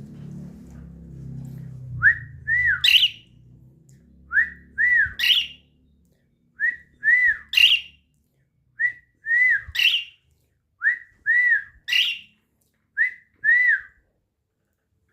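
Budgerigar (parakeet) calls: the same short phrase repeats six times, about every two seconds. Each phrase is two or three quick arched whistles followed by one sharp, high chirp. A faint low rumble sits under the first few phrases.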